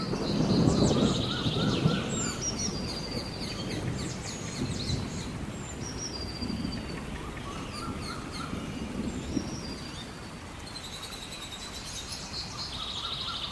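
Several birds calling with chirps and whistles over a steady outdoor hiss, one short phrase repeating about every five to six seconds. A low rumble sounds in the first two seconds and is the loudest part.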